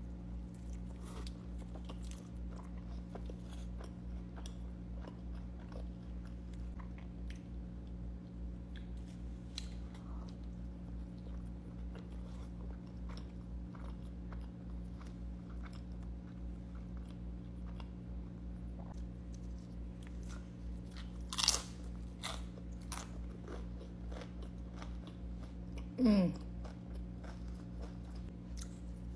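Close-up chewing and biting of a burrito: many small wet mouth clicks and crunches over a steady low hum. There is a sharper, louder crunch or click about two-thirds of the way through and a short falling voice-like hum a few seconds later.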